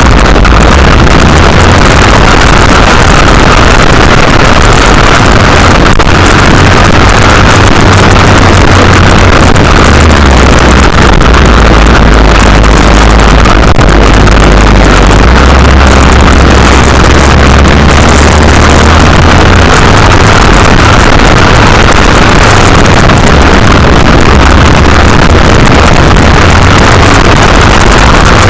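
Mini motocross bike engine running, almost buried under loud, distorted wind buffeting on the microphone, with a rumble that shifts every few seconds.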